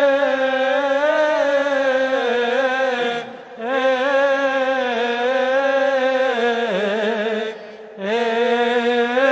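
A man's solo voice chanting a long melismatic phrase of Coptic liturgical chant, holding and ornamenting sustained vowels with a wavering pitch. He breaks off twice for a breath, about three seconds in and again near the end.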